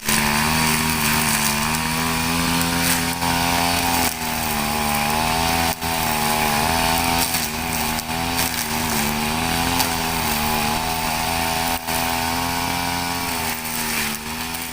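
Two-stroke brush cutter engine running fast and steady, its pitch wavering slightly up and down, with a few brief dips.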